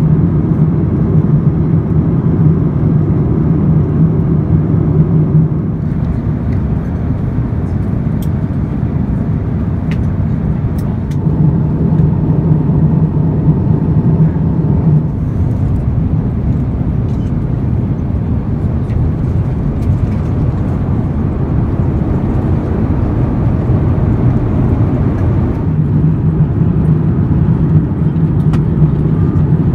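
Airbus A350-900 cabin noise in cruise: a steady low rush of engine and airflow noise, with a low hum that fades and comes back a few times.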